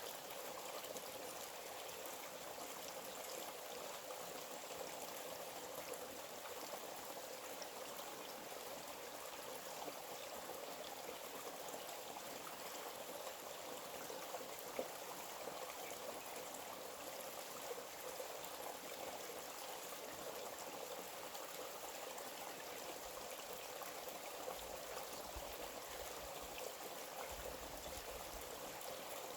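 Small forest stream flowing steadily, a continuous rush and trickle of water.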